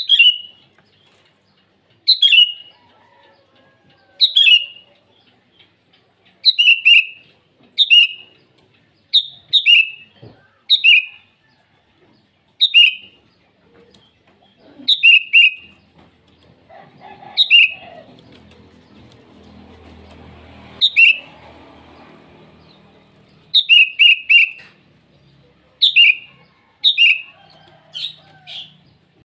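Sooty-headed bulbul (kutilang) giving short, sharp calls over and over, each dropping quickly in pitch, one to two seconds apart and sometimes two or three in quick succession: the call it gives to challenge a rival. A soft rustle runs under the calls for a few seconds in the middle.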